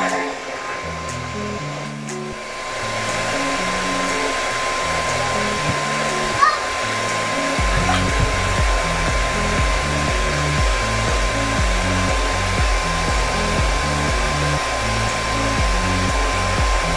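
Infinix foldable hair dryer with a diffuser attachment running steadily, a constant airflow rush with a steady motor whine.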